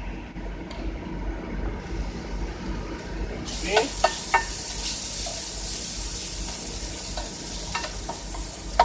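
Fresh egg going into a hot stir-fry pan with asparagus and ham in a little olive oil, starting to sizzle suddenly about a third of the way in and sizzling steadily after that. A few sharp knocks of a utensil against the pan come just after the sizzle starts and again near the end.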